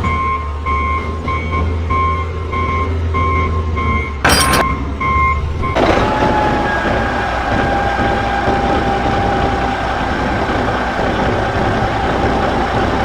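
A repeating electronic beep, evenly on and off like a reversing alarm, over a low hum, with a short click about four seconds in. About six seconds in it cuts abruptly to the steady whirring of a small motor with a faint whine.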